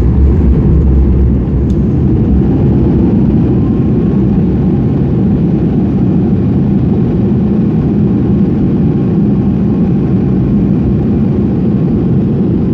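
Airliner cabin noise during the landing roll after touchdown: a loud, steady rumble from the jet engines and the wheels on the runway. A very deep rumble eases about a second and a half in, and a faint whine glides slightly up a few seconds later.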